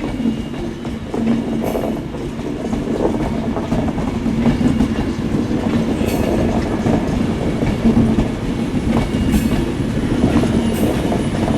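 A train running at the station platform: a steady low rumble and hum, with a few sharp wheel clicks over the rails.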